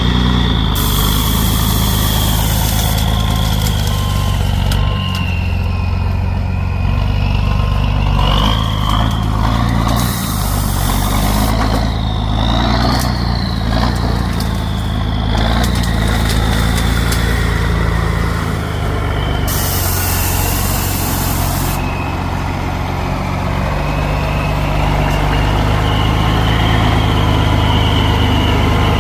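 M35 'Deuce and a half' military truck driving, its engine running steadily under load with a high drivetrain whine that slowly rises and falls. Three short bursts of hiss break in along the way.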